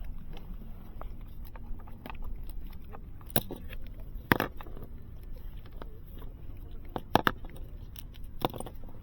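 A few sharp clicks and knocks, one a close double, over a low steady rumble.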